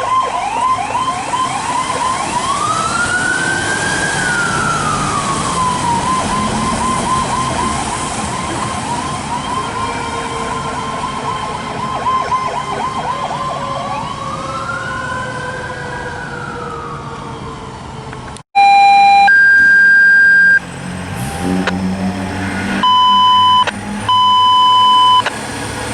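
Fire apparatus electronic sirens alternating between a fast yelp and a slow rising-and-falling wail. After a cut about two-thirds of the way through, loud steady horn blasts follow, with a low rising sweep between them.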